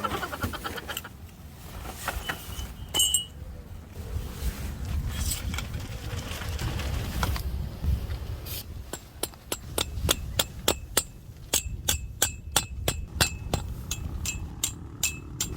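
Wind rumbling on the microphone. About halfway in, a rapid, irregular run of sharp clinks begins, each with a short bright ring, like metal or glass being tapped over and over.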